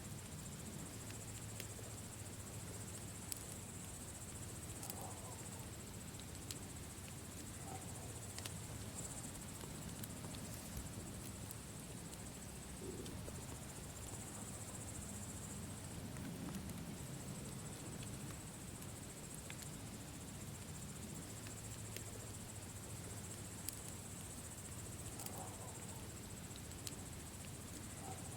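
Campfire crackling, with scattered sharp pops over a low steady rumble, and crickets chirring in a high, steady hiss.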